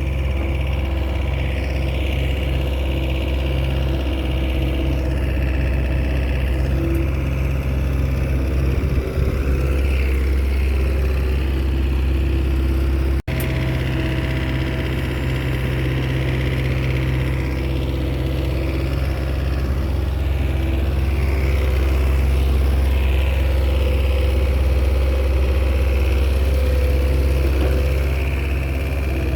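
Small Komatsu crawler bulldozer's diesel engine running steadily, with a sudden brief cutout about halfway through.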